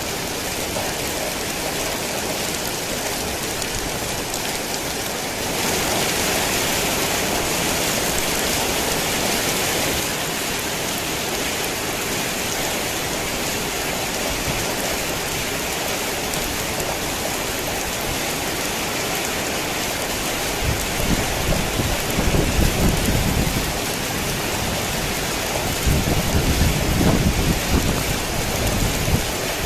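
Heavy rain falling steadily as an even hiss, heavier for a few seconds near the start. Low rumbles of thunder come in about two-thirds of the way through and again near the end.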